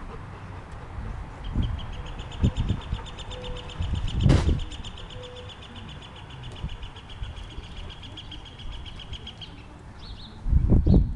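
A bird's high, rapid trill, an even run of quick chirps that goes on for about eight seconds, over scattered low thumps and bumps; the loudest thump, with a sharp click, comes about four seconds in, and a burst of heavy bumps comes near the end.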